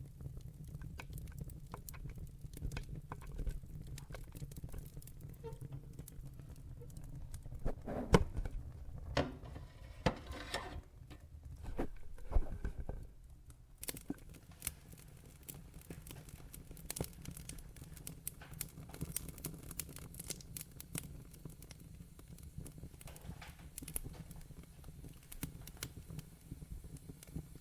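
Wood fire in a fireplace crackling: a steady low rumble of flames under scattered sharp pops and snaps. A louder flurry of pops with some hissing comes about a third of the way in.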